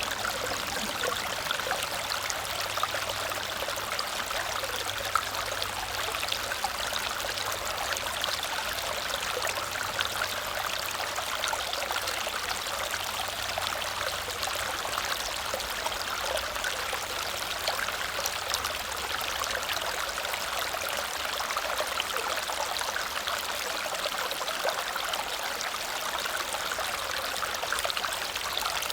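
Small waterfall cascading steadily: a continuous rush of falling, splashing water, with now and then a slightly louder splash standing out.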